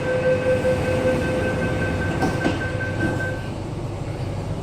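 MTR Kwun Tong line metro train running, heard from inside the car: a steady rumble with an even electrical whine that stops about three and a half seconds in.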